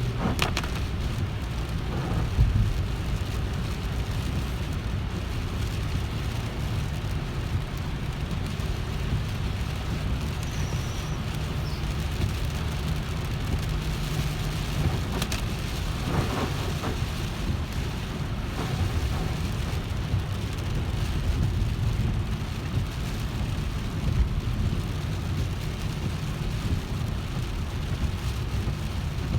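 Car driving in the rain: a steady low road and engine rumble under a hiss of rain and spray, with a few faint brief knocks.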